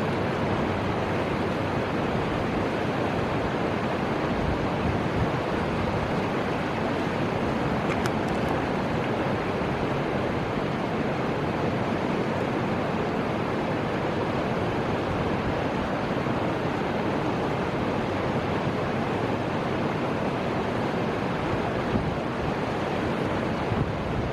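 Fuji River water rushing, a steady, even noise with no change.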